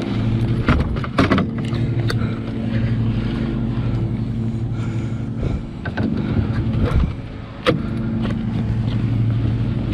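A fishing reel whirring in stretches of one to three seconds as a big muskie is fought from a kayak, with sharp knocks in between.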